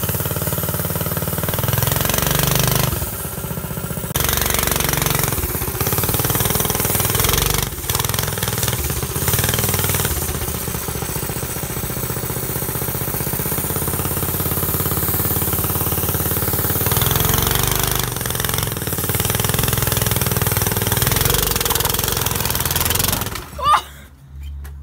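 Go-kart engine running loud and rough through a motorcycle exhaust, its level rising and falling as it is driven. Near the end it cuts out suddenly: the engine stalls.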